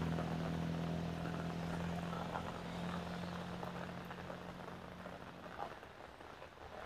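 Heavy rain falling steadily on a wet road, with a passing vehicle's engine hum fading away over the first few seconds.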